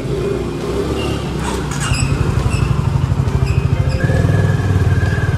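Honda H'ness CB350's single-cylinder engine running as the motorcycle pulls away, its exhaust pulsing rapidly and getting louder about two seconds in.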